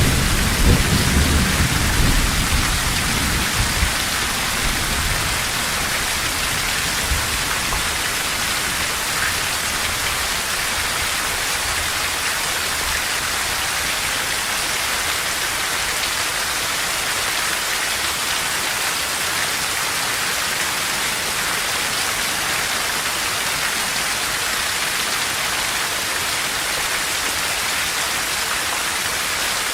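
Heavy rain falling in a steady hiss, with the low rumble of a thunderclap dying away over the first few seconds.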